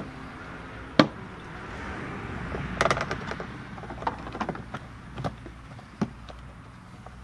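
A few sharp knocks and clatters, spaced a second or so apart, with a small cluster about three seconds in, over a faint steady background.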